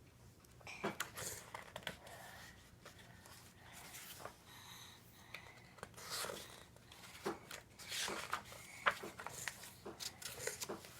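Faint rustling and scattered soft clicks of a paper picture book being handled, its pages moved, in a small room.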